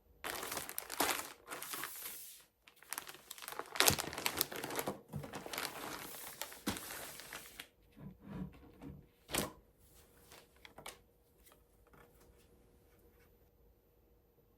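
Packaging crinkling and being torn open by hand, in dense bursts of rustling for the first seven or eight seconds. Then a few light clicks and knocks, one sharper click about nine seconds in, as handling quietens down.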